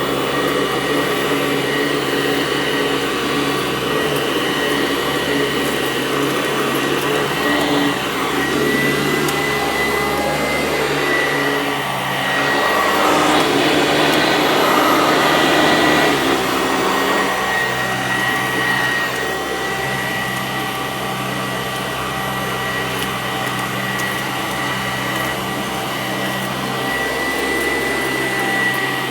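Sanitaire SC886 upright vacuum running over carpet: a steady motor whine with rushing air. It gets louder and rougher for a few seconds about halfway through.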